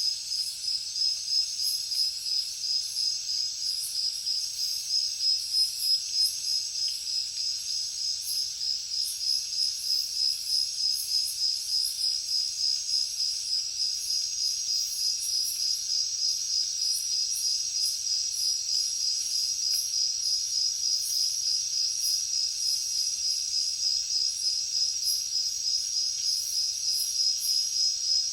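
Insects calling: a steady, high, finely pulsed trill that keeps on without a break.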